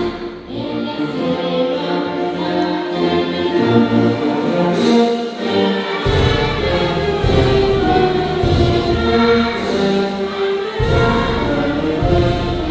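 A choir singing with orchestral accompaniment, with a deep bass part that drops out and comes back in twice.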